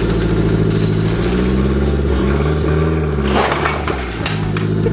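Nissan 180SX engine running steadily under light throttle as the stuck car is driven at the ramps. The revs dip and come back up about two to three seconds in, and a brief rushing noise comes just after.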